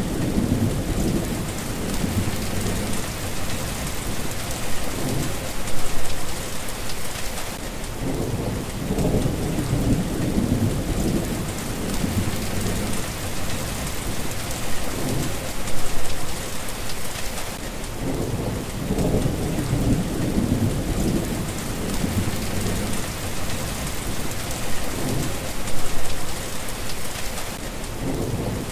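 Steady rain hissing, with low thunder rumbling over it that swells and fades again and again, peaking about every ten seconds.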